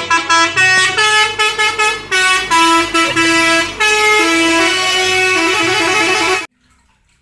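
A melody played in a loud, buzzy horn tone, stepping from note to note, which cuts off suddenly about six and a half seconds in.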